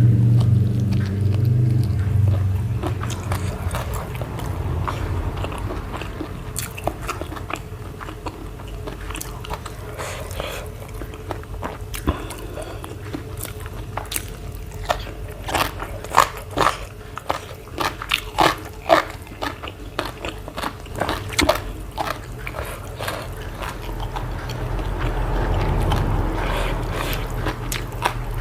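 A person chewing and biting food close to the microphone, with a run of loud, crisp crunching bites in the middle. A low rumble fades out over the first couple of seconds.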